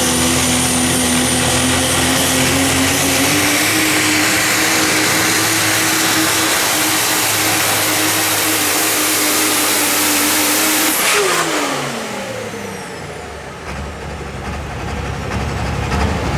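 Super stock diesel 4WD pulling truck running flat out under load, with a high turbocharger whistle over the engine. About eleven seconds in, the throttle is let off: the whistle cuts out and the engine note falls away. Near the end, another engine rises at a low idle-like rumble.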